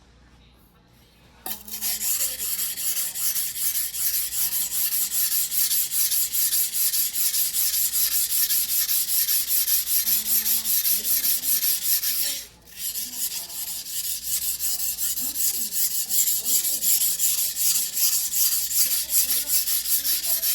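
Choyo White #2 steel yanagiba blade being hand-sharpened on a whetstone: steel rubbing on the stone in quick, even back-and-forth strokes. They start about a second and a half in and break off briefly about twelve seconds in.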